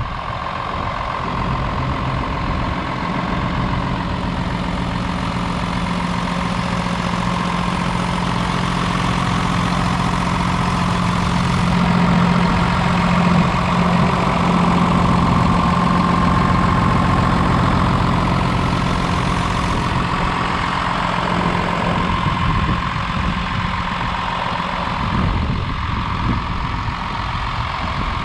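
Hino 268A truck's J08E inline-six turbodiesel idling steadily.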